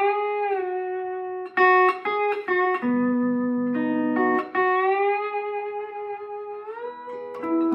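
Lap steel guitar tuned open G (G B D G B D), played with a steel bar. It plays a slow melodic phrase of plucked, sustained single notes and two-note chords, with the bar sliding the pitch between notes several times.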